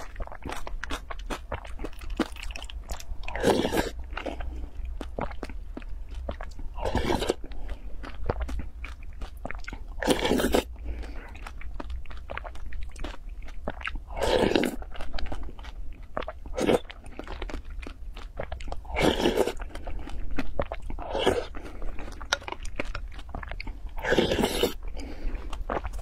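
Close-miked eating: chewing and wet mouth sounds from spoonfuls of a pink, milky fruit dessert with soft chunks. A louder mouthful comes about every three to five seconds, with small clicks in between.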